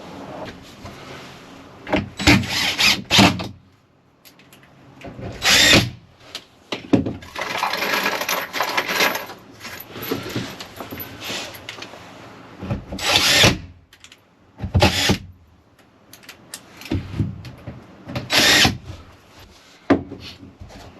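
Power drill running in short bursts, about half a dozen times, with one longer run in the middle: screws being driven into wood.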